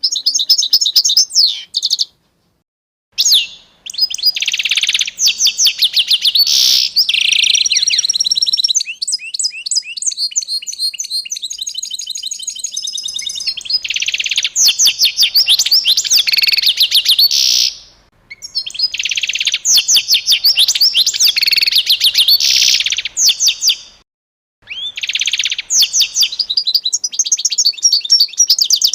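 Songbird singing: fast runs of high chirps and trills in phrases several seconds long, broken by short pauses.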